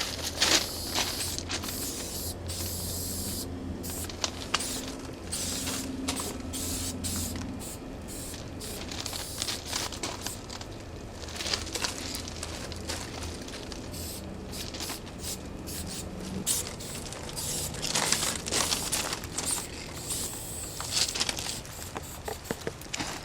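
Aerosol spray paint cans hissing in repeated strokes, some short and some several seconds long, with brief breaks between them, as graffiti is painted. A low steady hum runs underneath for roughly the first third.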